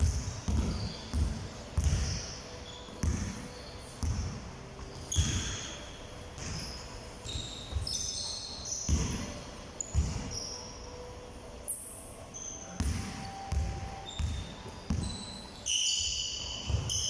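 Basketballs bouncing on a hard indoor court, deep thumps at uneven intervals, with short high squeaks scattered among them.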